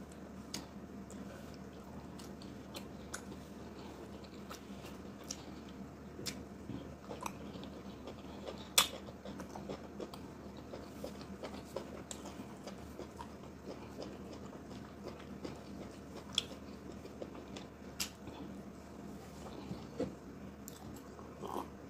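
Close-up eating sounds of ogbono soup and garri eaten by hand: quiet chewing, with faint scattered wet clicks and one sharper click about nine seconds in.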